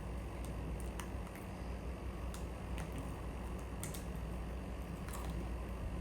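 Toasted peanuts crunching as they are chewed: scattered sharp clicks over a steady low hum.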